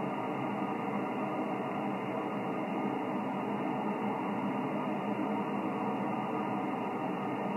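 Yaesu FT-1000MP HF receiver on a quiet 20-metre sideband frequency: a steady hiss of band noise with no station transmitting, thin-sounding with nothing above the radio's narrow audio range.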